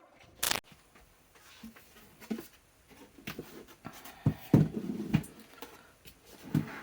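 Scattered light taps, clicks and rustles of small wooden pieces being handled on a work table, with a sharp click about half a second in and a cluster of knocks a little past the middle.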